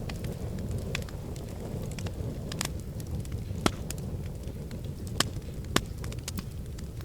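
Wood fire in a fireplace crackling: a steady low rumble of burning with scattered sharp snaps and pops, three of them louder in the second half.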